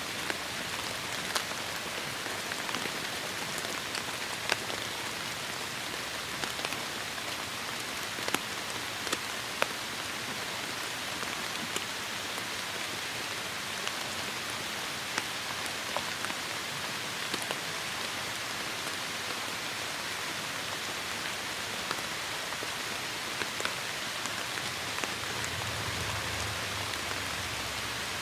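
Heavy rain falling steadily, with single drops ticking sharply now and then. A low rumble comes in near the end.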